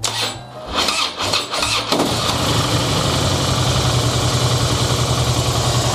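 Harley-Davidson Dyna Low Rider's V-twin turned over by its electric starter for about two seconds. The cranking is weak, a sign of a tired battery. The engine then fires and settles into a steady, pulsing idle.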